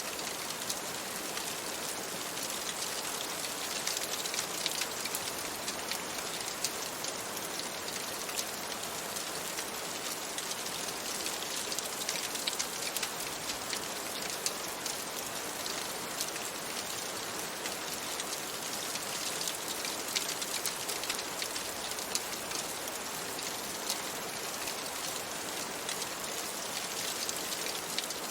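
Steady rain on a window, an even hiss thick with small drop ticks.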